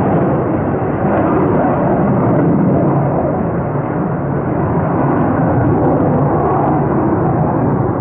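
Military fighter jet engines taking off, a loud steady roar.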